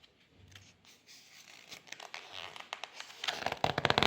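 Paper rustling and crinkling as a storybook page is turned. It is faint at first and grows to a brief, loud flurry of crackles near the end.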